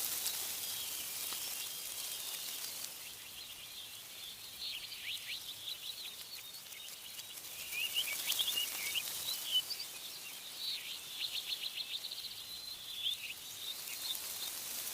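Small songbirds chirping and trilling in quick runs of short notes, starting a few seconds in, over a steady high hiss of wind rustling the leaves of trees.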